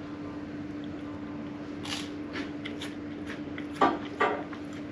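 A malty wafer biscuit being bitten and chewed, with one crisp crunch about two seconds in and a few faint crunches after it, over a steady low hum in the room. Two short voiced murmurs come near the end.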